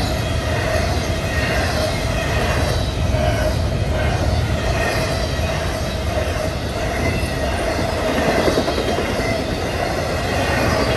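A CSX intermodal freight train rolling past: a steady, loud rumble of steel wheels on the rails, with faint high wheel squeals coming and going.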